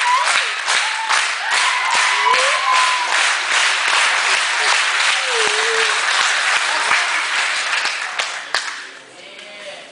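Audience applauding, with a few voices calling out over the clapping; the applause dies away near the end.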